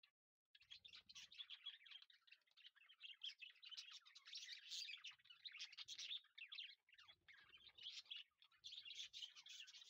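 Faint, dense chirping of many small birds, starting about half a second in.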